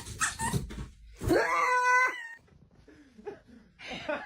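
A pet animal calling, with one loud, drawn-out pitched cry about a second in and shorter, quieter sounds around it.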